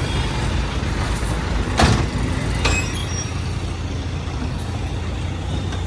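Heavy vehicle running with a steady low rumble. Two short hissing bursts stand out, one just under two seconds in and another about a second later.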